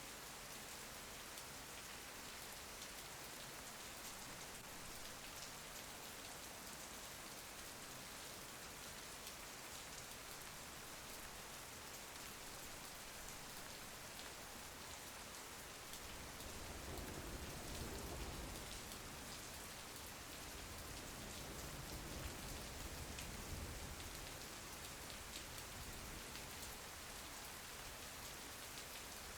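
Steady soft rain pattering against a window. About halfway through, a long low rumble of thunder swells up and fades over several seconds.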